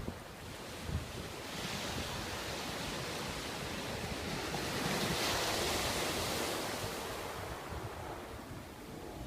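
Sea surf: a wave's hiss swells over a few seconds, peaks midway and dies away, with wind buffeting the microphone underneath.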